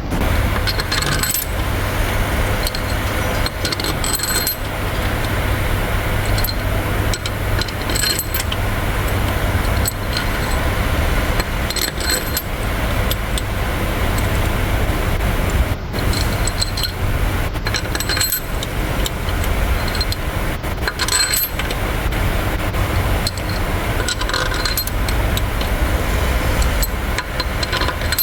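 Metal hand tools and engine parts clinking and tapping now and then, over a steady low hum.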